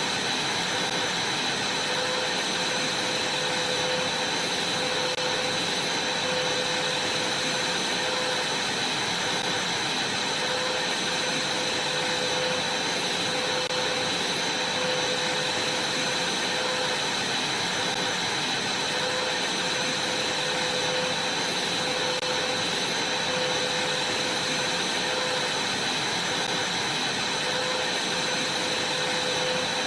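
Vacuum cleaner running steadily: an even rush of air with a constant high whine and a fainter lower hum.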